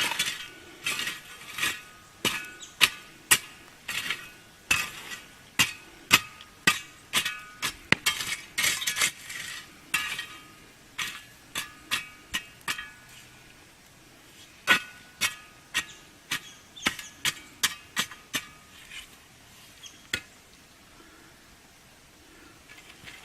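A metal tool clinking and clanking against metal, a long run of sharp strikes with a ringing note, as the campfire's ash and coals are stirred up around the camp oven. The strikes come thick and fast, pause briefly about halfway, resume, and die away a few seconds before the end.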